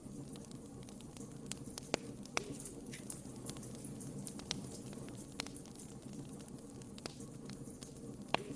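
Wood fire burning in a fireplace: a steady low rumble of flames with scattered sharp crackles and pops, the loudest about two seconds in and near the end.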